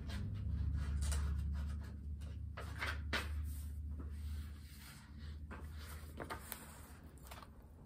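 Paper rustling with soft knocks as pages of a book are handled and turned, over a low steady hum. The rustles are irregular and thin out toward the end.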